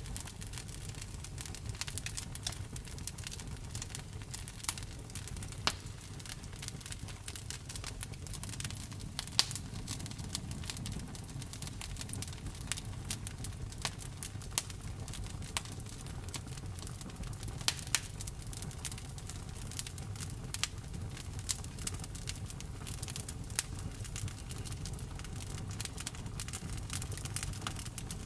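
Wood fire burning and crackling: irregular sharp pops and snaps over a steady low rumble.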